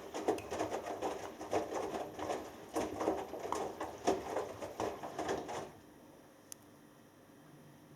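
Washing machine drum tumbling a wet load of cottons during the wash, with laundry and water sloshing in repeated surges as it turns. The drum stops about three quarters of the way in, leaving a faint hum and a single small click.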